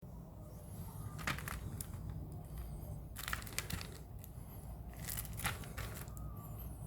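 Plastic packaging of a VCD being handled: crinkling, crackling rustles in three bouts, over a steady low hum.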